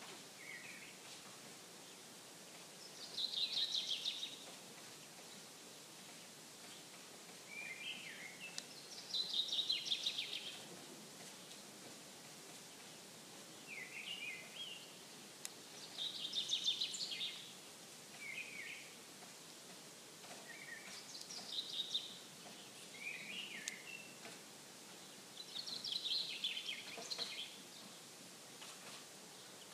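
Songbirds singing over faint lakeshore ambience: a loud, high song phrase of about a second comes every five to six seconds, with shorter, lower phrases in between.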